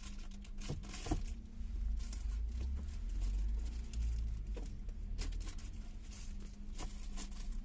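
Low diesel truck engine rumble that swells for a few seconds and then eases, over a steady hum, with scattered small clicks and knocks.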